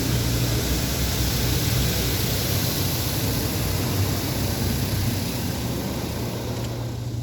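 Automatic rollover car wash spraying water over the car: a loud, steady hiss of spray over a low machine hum.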